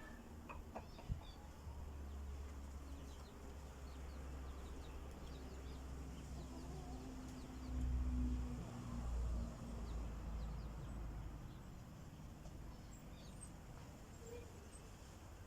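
Farmyard ambience: faint, scattered chirping of small birds, with a low rumble on the microphone that swells louder about eight seconds in, and a single sharp click about a second in.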